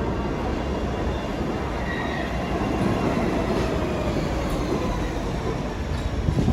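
New York City subway train running on the rails: a steady, dense rumble with faint whining tones over it, and a sharp thump right at the end.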